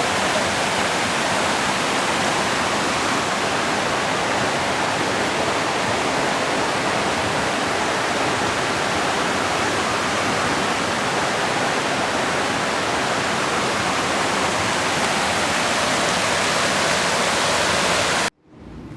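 Waterfall: a steady, loud rush of falling water that cuts off suddenly near the end.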